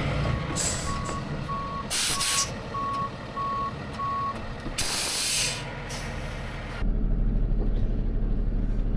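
Tow truck's engine running while its reverse alarm beeps about twice a second, stopping about four seconds in. Three short, loud blasts of air-brake hiss come about half a second, two seconds and five seconds in.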